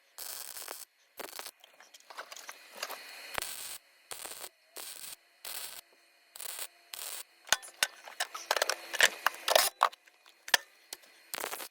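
Wire-feed welder with .025 wire stitch-welding a sheet-steel patch into a floor pan, in short spurts of about half a second each, one after another, with a few sharp clicks near the end.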